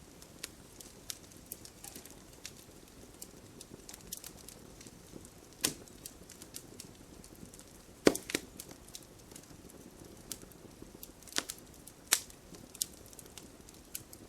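Campfire burning with a soft hiss and irregular crackles from the wood, with a few louder sharp pops, the loudest about eight seconds in.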